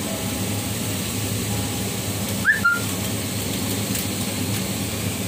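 Chopped vegetables frying in a steel pan with a steady sizzle, and one brief high rising chirp about halfway through.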